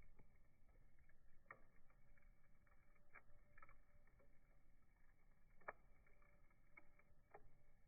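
Faint campfire crackle: burning wood giving off scattered, irregular pops and snaps, the sharpest about a second and a half in and again near six seconds.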